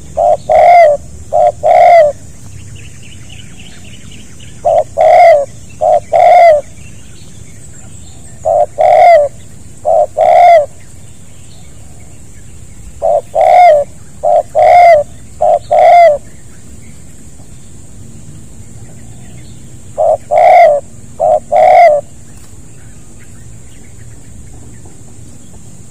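Spotted dove (tekukur) cooing close by, in phrases of two or three loud coos. The phrases repeat every three to five seconds and stop a few seconds before the end.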